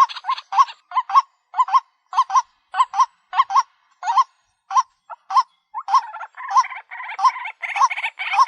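White-breasted waterhen calling: a run of short, hoarse notes, about three a second. Denser, rougher overlapping calls build up from about six seconds in. It is a lure-call recording of the species.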